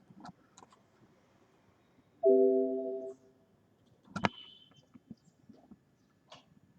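A short electronic chime from the computer: a chord of several steady tones lasting about a second and fading, among faint clicks, with a sharper click and a brief high beep about four seconds in.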